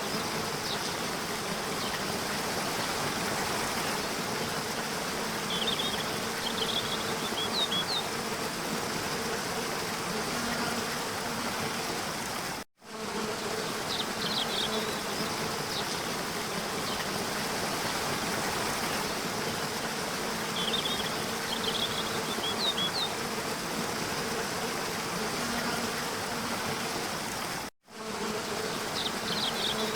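Steady rush of falling water with an insect buzzing over it and short bursts of high bird chirps that come twice. The sound cuts out for a moment about halfway through and again near the end.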